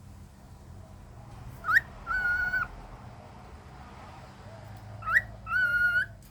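Cockatiel calling twice, about three seconds apart: each call is a quick rising chirp followed by a held, level whistle of about half a second.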